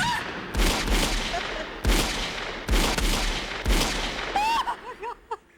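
Repeated gunshots from several guns firing on one target, a sustained volley whose loudest shots come about a second apart, dying away about five seconds in.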